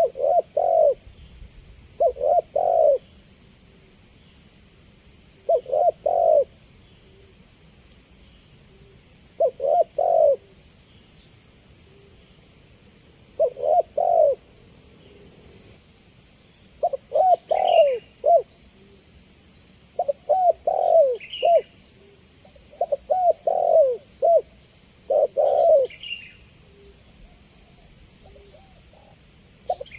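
Spotted dove cooing: repeated phrases of two to four low coo notes, a few seconds apart at first and coming closer together from about halfway through.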